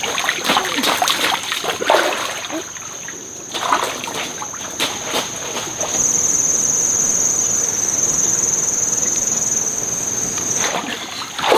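Stream water splashing and sloshing in scattered splashes for the first few seconds. From about six seconds in there is a steady rushing water noise that stops shortly before the end. A thin, steady high-pitched whine runs throughout.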